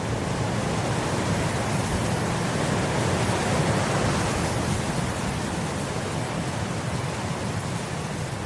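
Wind blowing across grass, a steady rushing noise that swells slightly in the middle and eases near the end.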